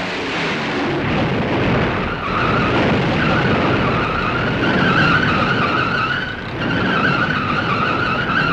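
Lockheed Constellation airliner sliding on its belly down the runway in a wheels-up landing after its landing gear jammed: a loud, steady scraping screech.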